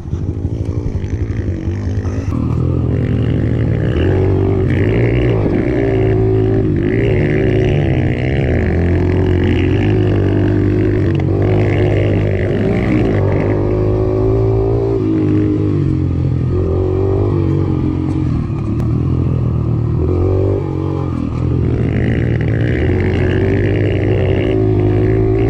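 Mini moto engine revving up and down as the small dirt bike is ridden, its pitch rising and falling with the throttle.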